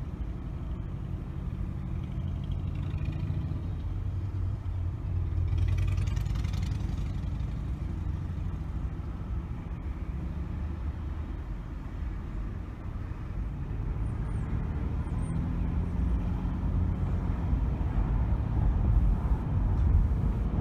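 A car driving on city streets: steady low engine and tyre rumble, with a brief swell of hiss about six seconds in, growing louder toward the end.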